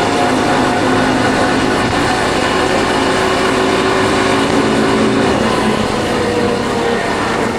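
Yamaha Factor 150's single-cylinder engine running steadily under way, mixed with rushing wind noise.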